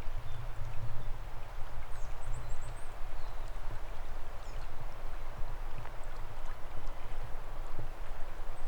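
Forest stream flowing steadily, with a low, uneven rumble underneath. A bird gives a quick series of short, high chirps about two seconds in, with a few single chirps later.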